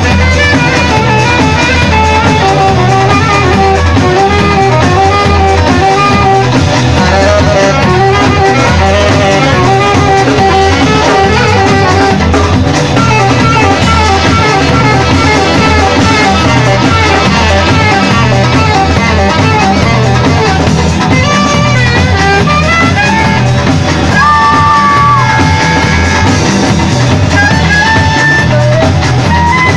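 Live band playing an instrumental tune: guitar and a drum kit keeping a steady beat, with a melody line over them that holds a long note near the end.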